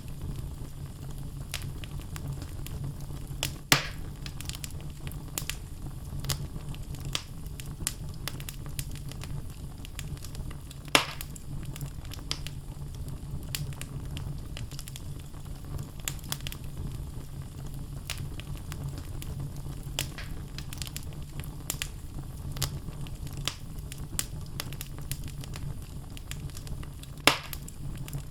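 Wood logs burning in a fireplace: a steady low rumble of flames with constant small crackles and three sharper, louder pops.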